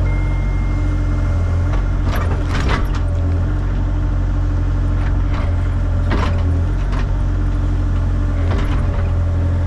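Excavator's diesel engine running steadily, with a few knocks and scrapes of the machine working dirt about 2, 5, 6 and 8½ seconds in.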